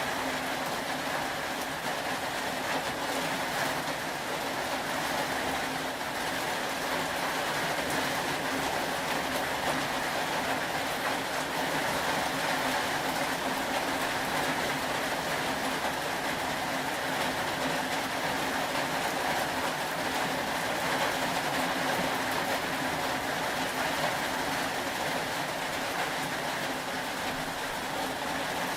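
Steady rain, a continuous even hiss with no pauses or changes.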